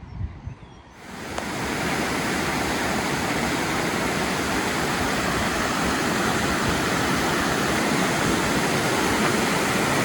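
Rushing water: a steady, even rush that comes in suddenly about a second in and holds.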